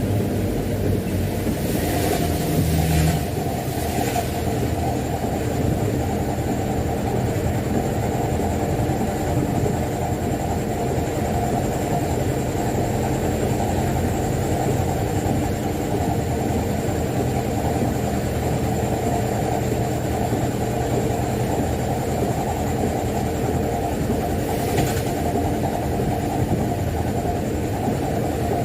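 Mitsubishi Canter dump truck's diesel engine running steadily as the truck drives, with a few brief clatters about two to four seconds in and again near the end.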